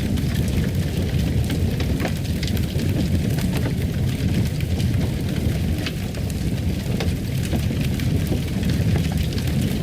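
Fireplace fire crackling: a steady low rush with scattered sharp pops and snaps.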